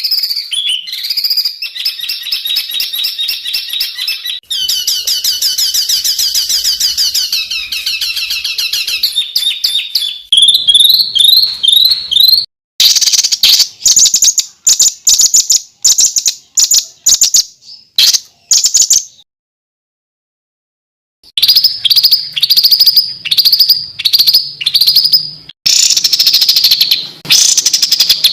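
Songbirds singing rapid, harsh runs of repeated chirps and trills. The audio is spliced from several recordings and changes pattern every few seconds, with a dead silence of about two seconds roughly two-thirds of the way through.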